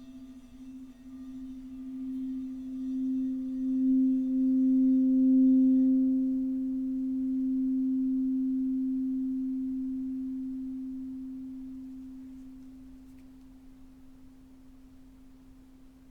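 A singing bowl sounding one low, steady, nearly pure tone that swells over about five seconds and then slowly fades away. Fainter higher ringing tones die out about six seconds in.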